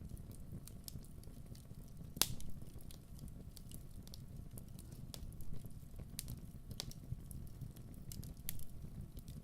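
Wood fire burning with a low steady rumble and irregular sharp crackles and pops, the loudest pop about two seconds in.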